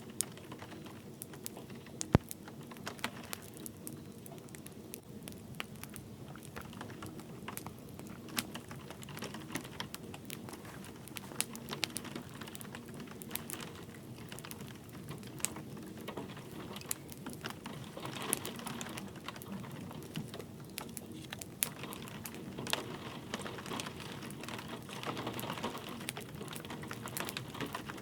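Wood fire crackling with irregular sharp pops, one louder pop about two seconds in, over a soft steady patter of light rain.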